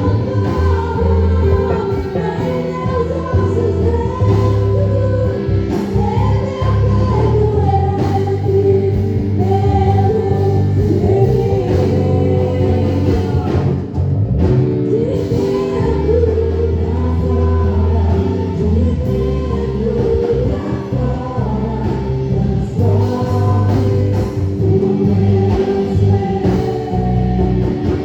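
Gospel praise song: voices singing a melody over continuous instrumental accompaniment.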